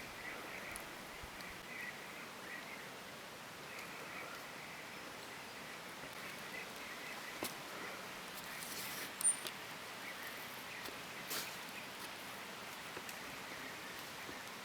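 Quiet outdoor ambience: faint, broken chirping from birds or insects, with a few soft clicks or snaps, the sharpest about nine seconds in.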